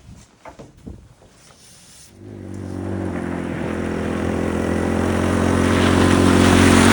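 A few light crunches, then a small engine comes in abruptly about two seconds in and runs steadily, growing louder toward the end.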